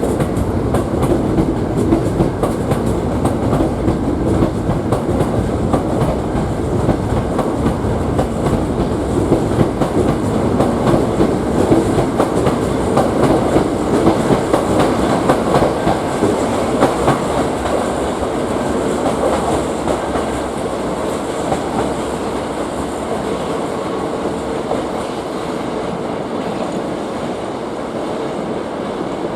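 Hankyu Kyoto Line electric train running along the track, a steady rumble with wheels clicking over rail joints, easing slightly in the last several seconds.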